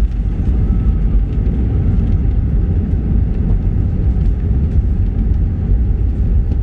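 Steady low rumble inside the passenger cabin of an Airbus A319 on the ground after landing.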